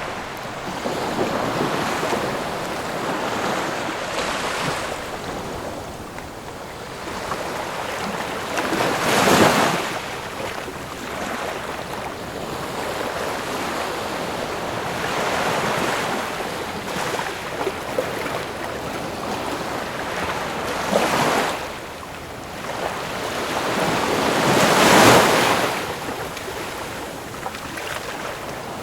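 Ocean waves breaking on a shore in a steady wash of surf, with louder breakers about a third of the way in and twice more near the end.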